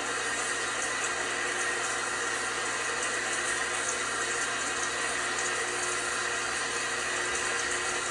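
LG washing machine running, with a steady rush of water inside it.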